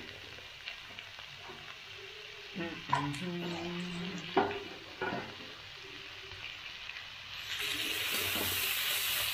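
Vegetables sizzling in a steel kadhai just after grated carrot and beetroot go in, with a few sharp metal knocks in the middle. About seven and a half seconds in, stirring starts and the sizzle gets louder as the steel spatula scrapes through the pan.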